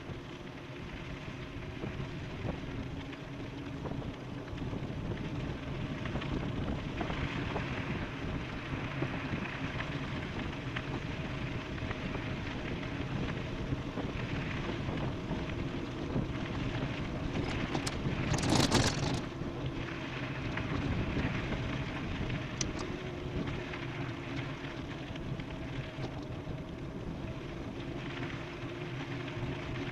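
Wind buffeting the microphone and rolling noise of an e-bike descending at speed, with a brief louder rush of wind about two-thirds of the way through.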